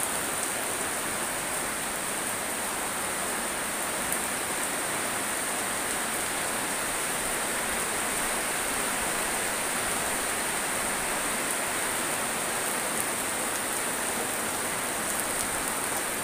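Heavy rain pouring steadily onto a yard, plants and paving, an even hiss without a break.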